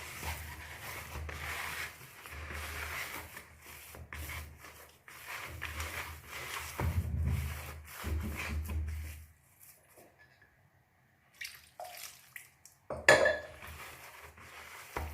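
Hands mixing and rubbing a wet corn-flour and semolina dough in a large bowl, a continuous squishing, scraping sound with low thuds, for about nine seconds. Then it goes quiet except for a few light clicks and one sharp knock against the bowl about thirteen seconds in.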